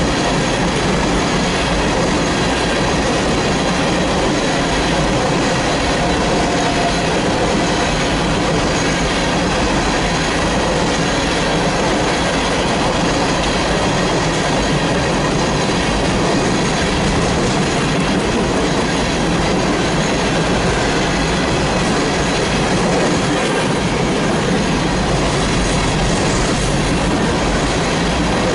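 Coal train's gondola cars rolling steadily past, steel wheels running on the rails.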